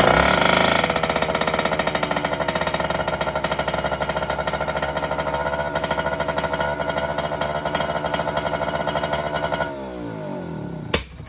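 Mercury 2.2 hp two-stroke outboard motor running steadily on fresh fuel, loudest just after it catches. Near the end it slows with a falling pitch and stops, followed by a single click.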